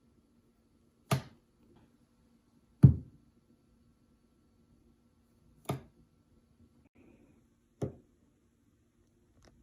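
Four sharp knocks at uneven intervals, over a faint steady hum.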